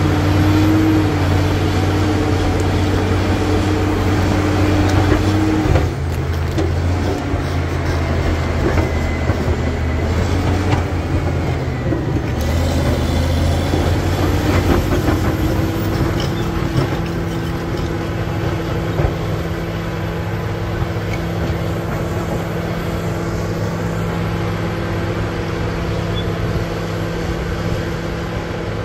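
Caterpillar D7G bulldozer's diesel engine running steadily under load. Its pitch drops about six seconds in and climbs again between about twelve and fifteen seconds, with scattered knocks in between.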